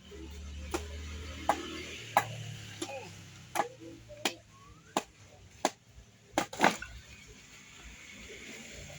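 A series of about ten sharp knocks or cracks, spaced fairly evenly at roughly one every two-thirds of a second, with the loudest pair close together about six and a half seconds in. A low rumble runs under the first two seconds.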